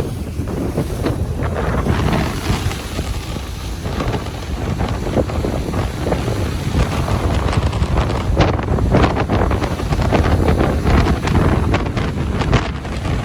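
Ocean surf washing and breaking on a beach, with strong wind buffeting the microphone and a heavy low rumble.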